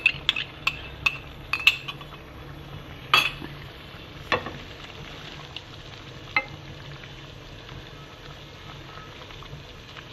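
Chicken karahi kebabs sizzling steadily in oil in a karahi. A spoon clinks and taps against the pan and bowl several times over the first few seconds, with one more tap about six seconds in, as yogurt is added and stirred.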